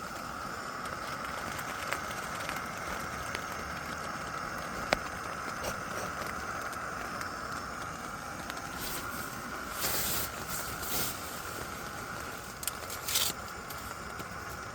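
Steady rain with scattered sharp drip ticks. A few short louder rustles come about two-thirds of the way through and again near the end.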